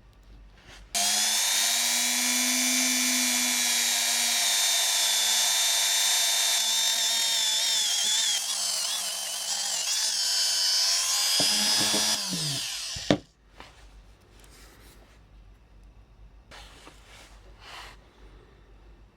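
A small high-speed electric motor starts suddenly and runs with a steady high whine, its pitch wavering for a few seconds as if under load. It then spins down with falling pitch and ends with a sharp click.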